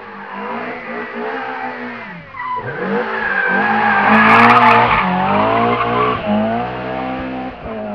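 Historic rally car engine revving hard, its pitch rising and dropping several times as the driver lifts, brakes and shifts through a corner, growing loudest about halfway through as the car passes close.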